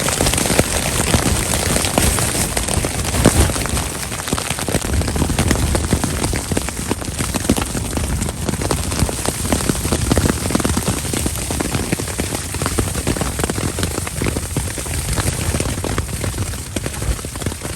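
Rain and wet sleet hitting a tent, a dense, steady run of many small hits.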